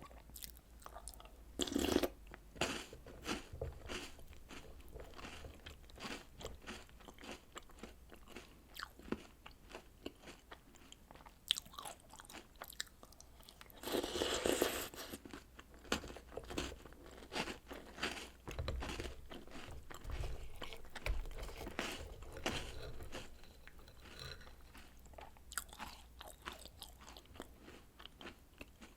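Close-miked chewing and crunching of chocolate snacks and cereal eaten with milk: a steady run of crisp crunches, with louder bursts about two seconds in and again about halfway through.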